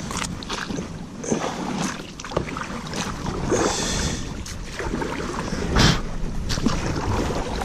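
Canoe and paddle being worked around an obstruction in the water: irregular knocks and scrapes on the hull, with splashing, and one louder knock near the end.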